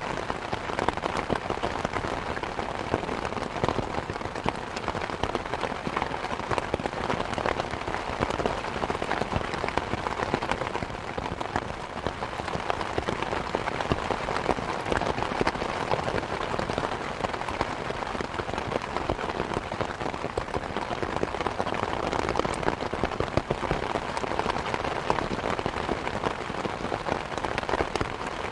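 Steady rain mixed with a crackling wood fire: an even wash of rain dense with small pops and ticks, unchanging throughout.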